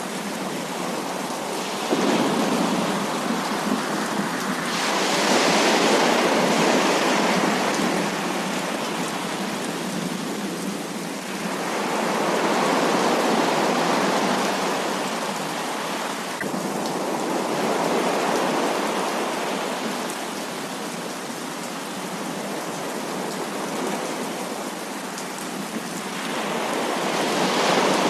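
Heavy rain pouring steadily, swelling louder in several slow waves, with a sudden surge about two seconds in.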